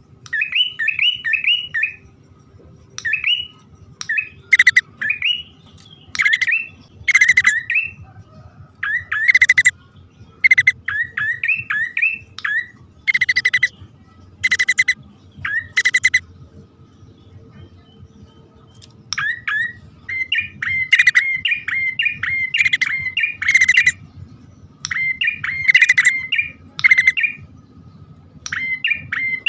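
Prinias (prenjak) calling as a male and female pair: runs of quick upswept chirps alternate with short, loud, harsh bursts, repeated many times with short gaps.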